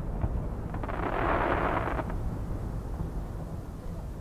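Low rumbling echo lingering after a 12-inch firework shell's burst, with a short hissing swell about a second in.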